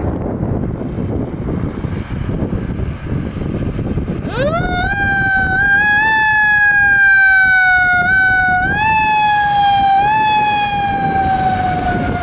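Fire engine's Federal Q mechanical siren spinning up about four seconds in to a loud wail, then coasting down slowly in pitch, boosted briefly twice. Before it comes a steady vehicle rumble.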